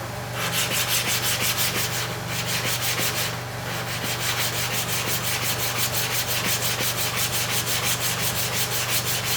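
Hair clipper blade rubbed back and forth on a flat sharpening stone dressed with abrasive powder: an even, rhythmic grinding scrape at about four strokes a second, with a brief break about three and a half seconds in.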